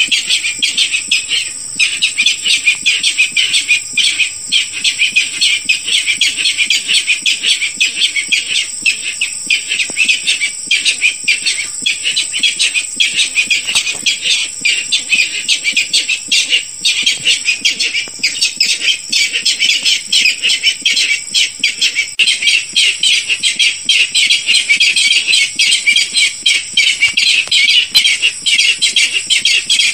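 Barred rail calling in a dense, unbroken run of rapid repeated notes, the lure call used to draw the bird in, with a steady high-pitched tone running underneath.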